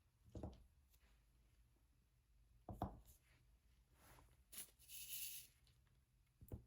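Faint, occasional soft taps of a diamond painting pen setting resin drills onto the canvas, a few seconds apart, with a brief scratchy rustle about five seconds in.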